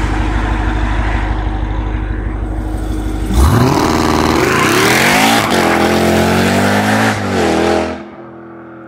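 Car engine rumbling at low revs, then launched hard about three seconds in, its revs climbing and dropping back twice as it shifts up through the gears; the launch leaves tire marks on the pavement. The engine sound cuts off sharply near the end.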